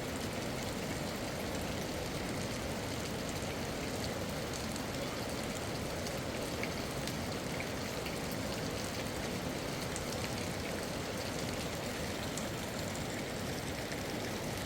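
Steady, even hiss of water, like rain falling, with faint scattered ticks.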